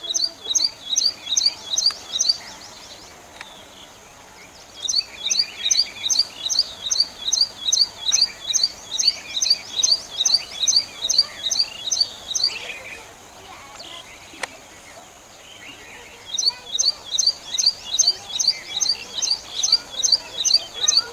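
Common tailorbird singing: a loud, fast, high two-note call repeated about three times a second, in three long bouts with short pauses between. Fainter chirps fill the pauses.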